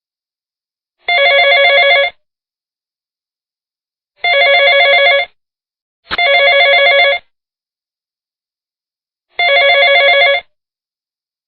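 Telephone ringing: four trilling rings of about a second each, mostly about three seconds apart, with the middle two closer together and a click at the start of the third.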